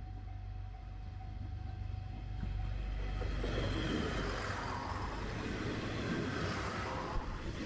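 Diesel train on JR Shikoku's Dosan Line passing a level crossing: a low rumble with wheel-on-rail noise that swells and is loudest in the second half. A steady tone fades out about three seconds in.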